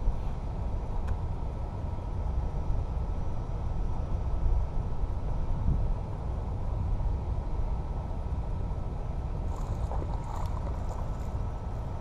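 Wind buffeting the microphone, a steady low rumble, with a few faint ticks near the end.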